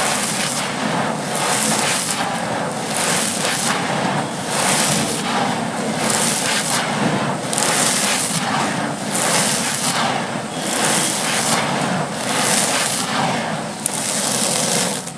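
Dry, gritty sand slabs being crumbled and crushed: continuous gritty crackling with a sharper crunch about once a second.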